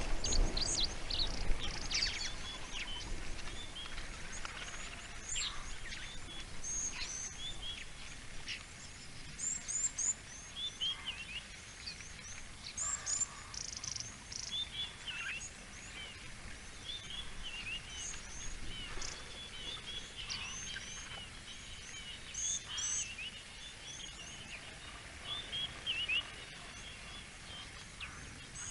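Many small wild birds chirping and trilling in quick, overlapping short calls over a faint steady bush background, with a low rumbling noise at the start that fades within the first few seconds.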